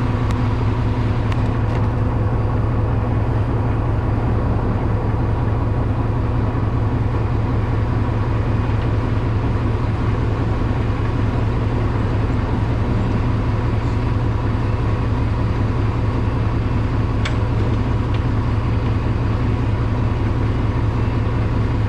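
Diesel engine of a concrete mixer truck running steadily with an even low drone, no revving.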